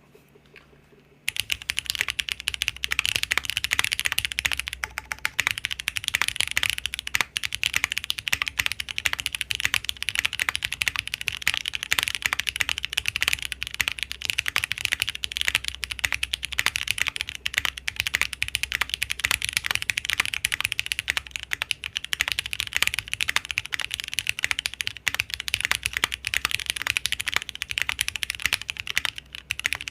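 Fast, continuous typing on a custom mechanical keyboard, starting about a second in: crisp key clacks with the spacebar thudding between them. It shows a little resonance around the spacebar.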